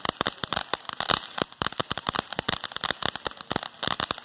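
Fireworks crackling: a rapid, uneven string of sharp pops, many per second.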